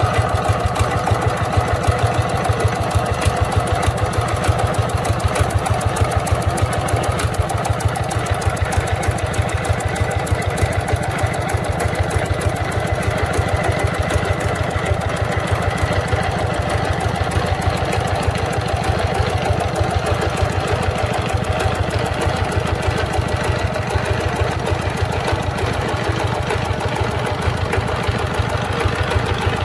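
Restored single-cylinder diesel engine running steadily at idle, with a fast, even knock of firing strokes.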